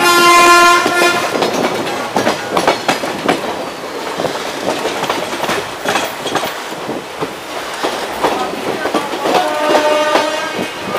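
Passenger train wheels clattering over rail joints and points as the coach rolls along, heard from its open door. A train horn sounds for about a second at the start, and another, higher sustained tone comes in near the end.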